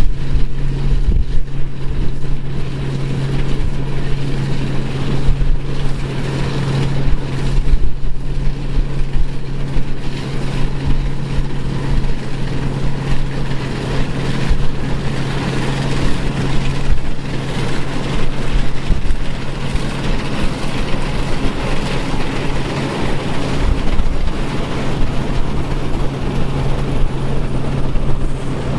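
Engine of vintage harvest machinery running steadily at constant speed, with a strong unchanging low hum.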